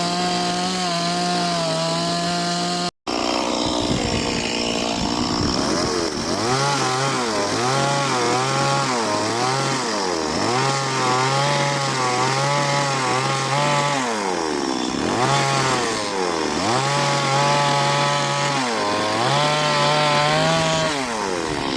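Two-stroke chainsaw cutting wood, its engine pitch dipping and rising again and again as the chain bites and the throttle is worked. The sound cuts out for an instant about three seconds in.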